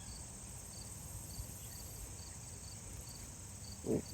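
Field crickets and other insects: a steady high buzz with short chirps repeating a couple of times a second, over a faint low rumble.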